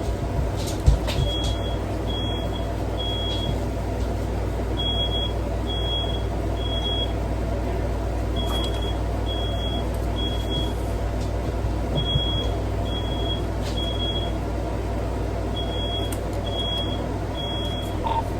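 Smoke alarm sounding its high three-beep pattern: three short beeps, a pause, then again, repeating throughout, over a steady low rumble. It has been set off by smoke from fireworks let off indoors.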